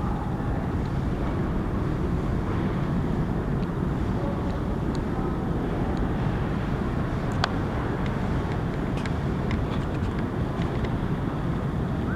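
Freight train of tank cars rolling past: a steady low rumble of wheels on rail, with a few light high clicks and squeaks, the sharpest about seven seconds in.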